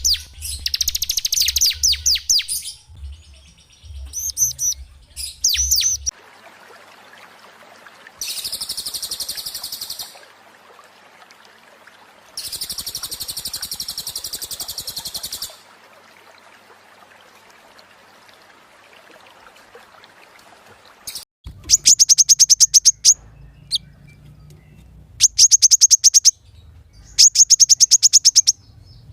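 Songs of small songbirds, several kinds in turn. First come quick sweeping chirps for about six seconds. Then there are two buzzy, rattling trills of about two and three seconds. From about two-thirds of the way in come loud bursts of rapid, high, sharp repeated notes, with a low hum under the loudest parts.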